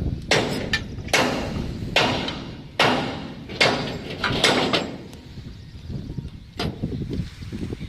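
Hammer blows on steel bolts of a rail bridge girder, struck about once a second, each with a short metallic ring, pausing briefly about two-thirds of the way through before the strikes resume.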